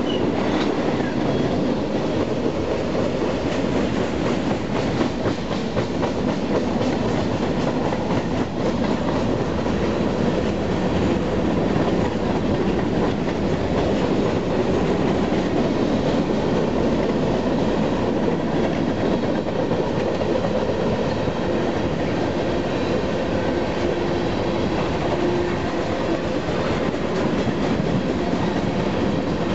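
Freight train's tank cars and covered hoppers rolling past: a steady rumble of steel wheels on the rails.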